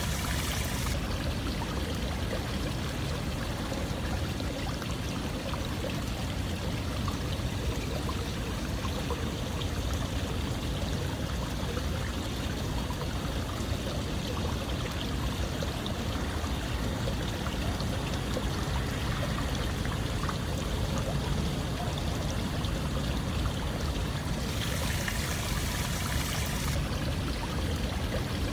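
Steady rush of running water, an even continuous flow with no pauses, briefly brighter and hissier for about two seconds near the end.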